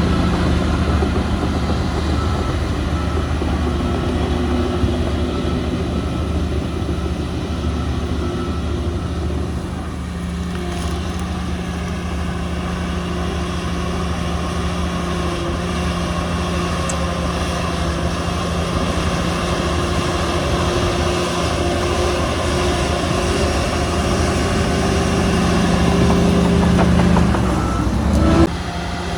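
Diesel engine of heavy earthmoving machinery running steadily at a fairly constant speed, with an abrupt change in the sound near the end.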